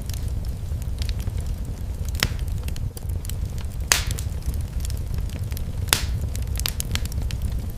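Wood fire in a fireplace crackling, with a steady low rumble of the flames and scattered sharp pops, the loudest about 4 and 6 seconds in.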